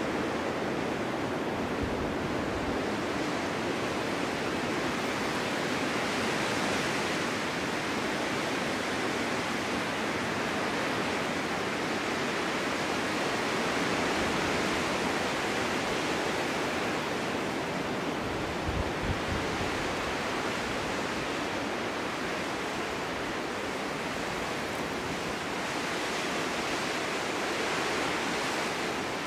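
Winter storm wind blowing steadily, a continuous rushing hiss that swells and eases slowly every several seconds. There is a brief low thud about nineteen seconds in.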